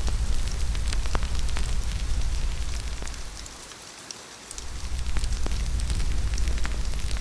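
Steady rain with a low rumble, over the scattered pops and crackles of a wood fire. The rumble and hiss fall away for about a second partway through, then come back.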